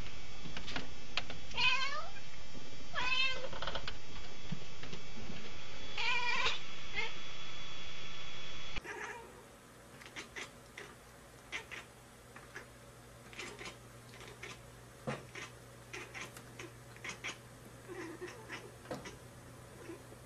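Domestic cat meowing three times over a steady hiss, each call falling in pitch. After a sudden drop in level, a cat chatters: soft, scattered clicks and little chirps.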